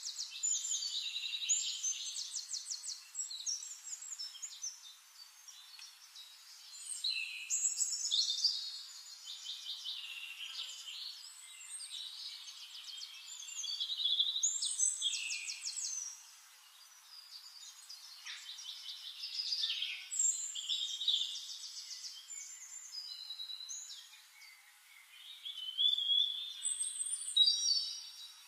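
Small birds singing and chirping, with rapid trills and short calls coming in louder bursts every several seconds.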